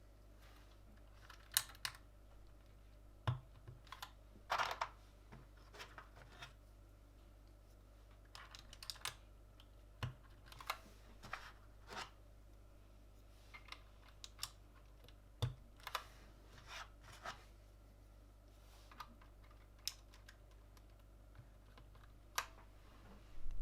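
Irregular sharp clicks and snaps of keyboard parts being pressed into place one at a time on a Gamakay LK67 mechanical keyboard, some in quick pairs, with short pauses between them.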